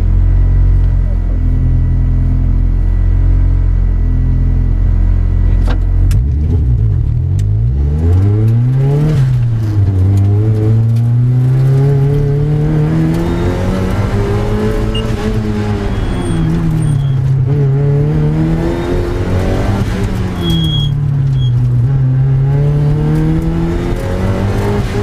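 Turbocharged Mazda Miata engine, heard from inside the cabin: it runs steadily at low speed, then about six seconds in it revs up hard, drops in pitch near nine seconds as it shifts, and rises and falls again and again as the driver gets on and off the throttle.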